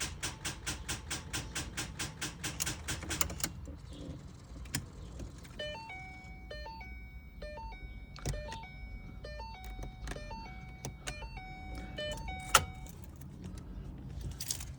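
Rapid, even clicking, about six clicks a second, for the first three and a half seconds: a Ford Mustang's starter solenoid chattering as the key is turned with a dead battery, the engine not cranking. Then a run of stepped electronic tones that shift in pitch, and a single sharp click near the end.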